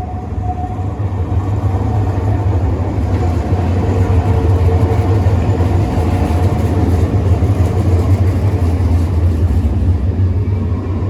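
Bombardier NGT6DE tram running on its rails: a steady low rumble with faint whining tones above it.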